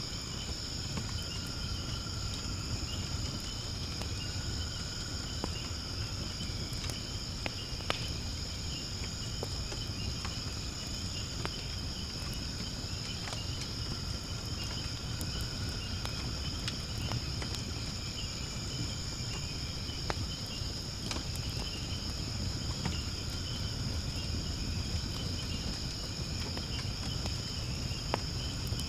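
Firewood burning in a fire pit: scattered sharp crackles and pops over a low steady rumble of the flames, against a steady high-pitched chorus of insects chirring.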